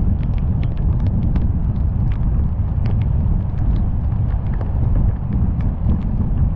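Car driving through heavy rain: a steady low rumble of tyre and wind noise, with many irregular sharp ticks of raindrops striking.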